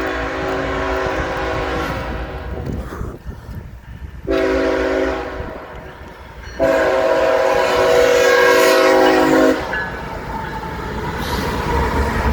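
A freight locomotive's horn sounds three long blasts, the last the loudest, as the train comes up to the road crossing. The rumble of the train passing follows.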